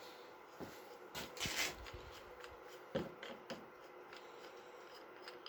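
Hands handling the parts of a disassembled air impact driver: scattered light clicks and taps, a short rustling scrape about a second and a half in, and a sharp metal-on-bench knock about three seconds in.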